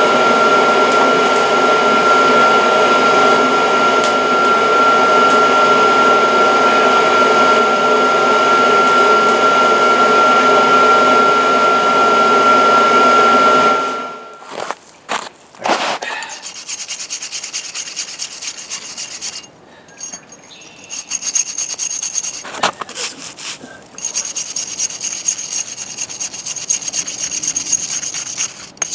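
Forge air blower running with a steady whine in the noise, cutting off about halfway through. Quieter, intermittent scraping sounds follow.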